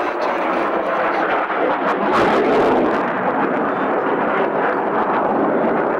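Aircraft engine noise: a loud, steady rushing drone that swells briefly about two seconds in.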